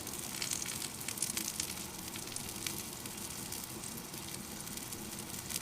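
Wood fire burning in a small titanium camp stove: a steady hiss with many small quick crackles.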